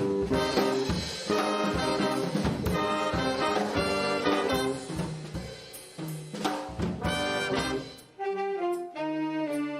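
A band of brass and saxophones with drum kit playing a jazz-style tune. About eight seconds in the drums drop out and the horns carry on with held chords.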